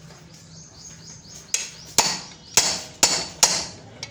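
Hammer blows on metal, five sharp strikes about two a second, each ringing briefly, as part of work on a motorcycle engine.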